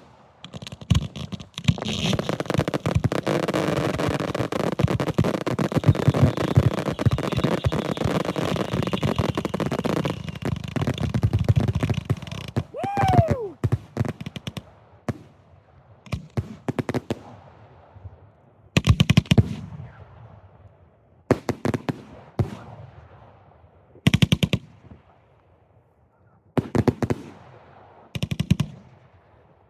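Fireworks finale heard close to the launch site. A dense barrage of rapid-fire launches and bursts runs for about ten seconds. A whistle sounds about 13 seconds in. After that come shorter clusters of rapid reports, with pauses between them.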